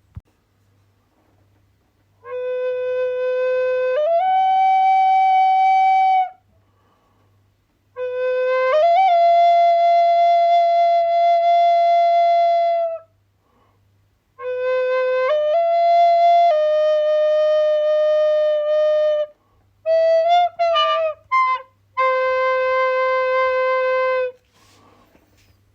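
A wind instrument playing long held notes in phrases of a few seconds, with near silence between them. Most phrases start low and step or slide up in pitch, and a few short broken notes come shortly before the final held low note.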